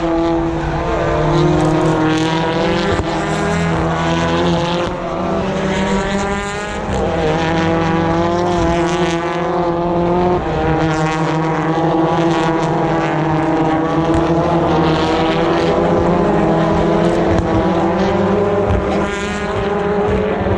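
British Touring Cars, turbocharged 2-litre four-cylinder racing engines, passing one after another, their pitch rising and falling as they accelerate and shift through the corner.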